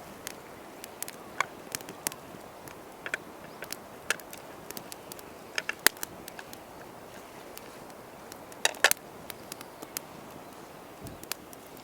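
Wood campfire crackling, with irregular sharp pops over a steady low hiss; a quick cluster of louder pops comes about nine seconds in.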